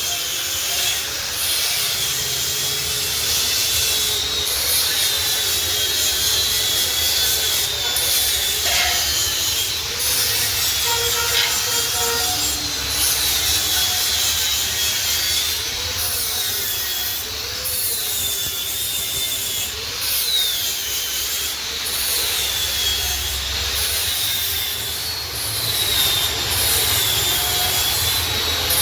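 Power tool grinding steel, most likely an angle grinder: a continuous gritty noise with a motor whine that rises and falls as the tool is pressed into the metal.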